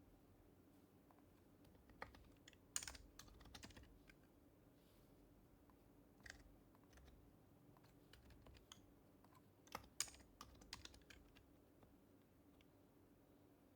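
Faint typing on an HHKB Professional HYBRID Type-S keyboard, its silenced Topre switches giving soft, muted keystrokes. They come in two short flurries, about two to four seconds in and around ten seconds in, with a few single keys in between.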